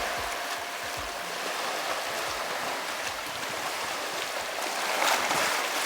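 Steady rushing water like a stream, an even hiss with a few short low gurgles in the first second or so, swelling slightly near the end.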